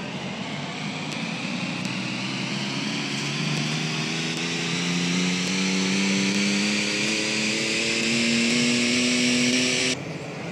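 Simulated Porsche 911 Turbo engine sound from the Instant Supercar iPhone app, played through the phone's speaker. It revs steadily higher as if accelerating, with a rising whine above it, then cuts off suddenly near the end, leaving the running noise of the metro train.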